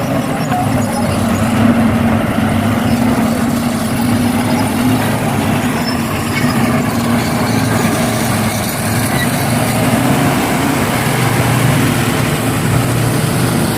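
Heavy diesel engine running steadily under load, a continuous low drone with a broad noisy rumble above it.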